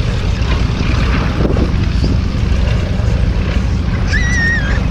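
Wind buffeting the microphone over a steady low rumble, with a brief wavering high whistle about four seconds in.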